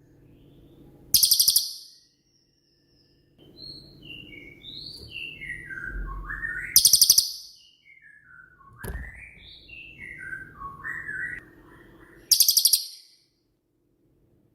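A cililin songbird singing. Runs of short whistled notes step down in pitch, and three times a loud, rapid high trill cuts in: the bird's 'shots' (tembakan). A faint low hum lies underneath.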